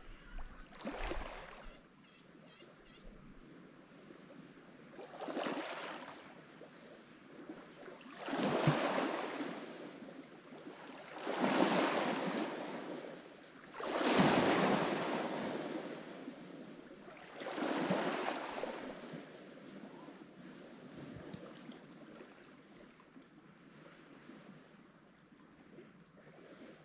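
Lake Michigan waves breaking on the shore: six separate washes about three seconds apart, the loudest ones in the middle, then settling to a low steady wash near the end.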